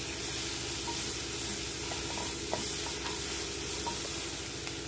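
Sliced mushrooms, green chilli and curry leaves sizzling in butter in a nonstick kadai as they are stirred with a wooden spatula. Steady frying hiss with a few light spatula taps.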